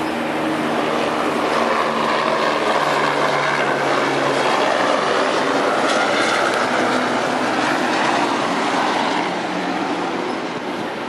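Container freight train's loaded flatcars rolling past close by: a steady rumble and clatter of steel wheels on the rails.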